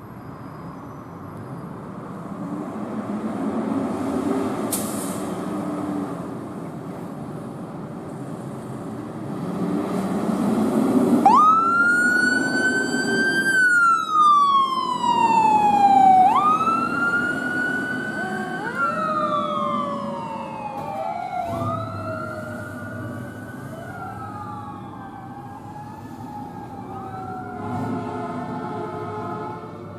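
Fire truck siren coming on about a third of the way in, over engine and traffic rumble. Each cycle climbs quickly to its top pitch and then falls away slowly, and the cycle repeats several times.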